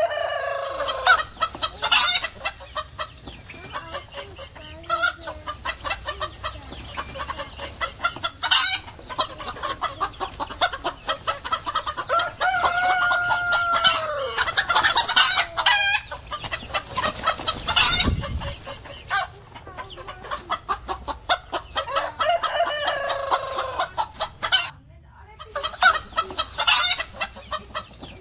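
Chickens clucking in a steady stream of short calls, with a rooster crowing once about halfway through, a long held call that drops at the end.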